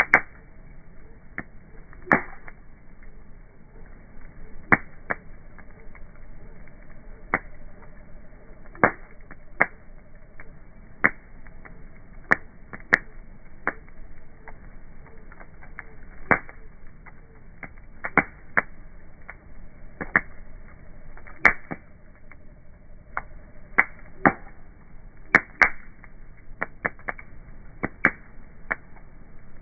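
Wood fire crackling: sharp, irregular pops about once a second over a low steady hiss, slowed down.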